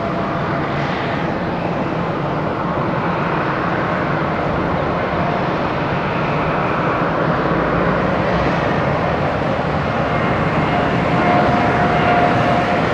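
Jet airliner's engines at takeoff thrust: a steady rushing noise that grows slowly louder, with a thin steady whine joining about ten seconds in.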